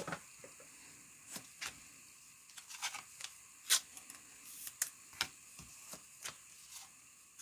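Football trading cards and packs being handled on a table: scattered light clicks and taps as cards are flipped and set down, about a dozen over several seconds.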